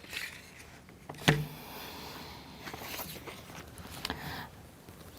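Small wooden model-kit parts handled and fitted by hand: faint rustling and light knocks, with one sharper click about a second in as a part seats.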